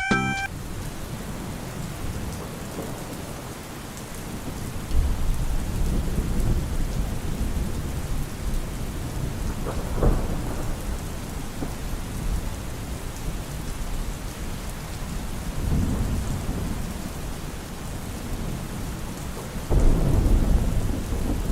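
Steady rain falling, with thunder rumbling several times: low rolling swells about five seconds in, around ten seconds, around sixteen seconds, and a louder one near the end.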